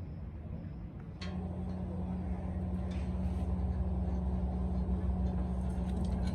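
A machine running with a steady low hum that steps up and gets louder after a click about a second in.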